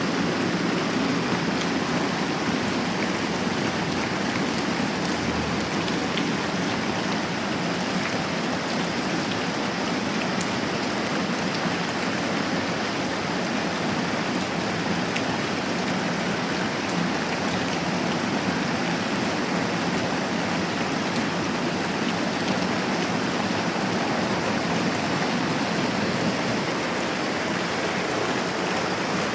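Moderate rain falling steadily: an even hiss with a few faint scattered drop ticks.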